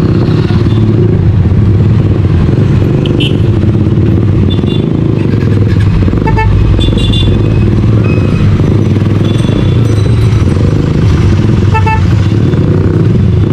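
Sport motorcycle engine and exhaust running steadily under way, loud and low. Brief high tones break in about six and twelve seconds in.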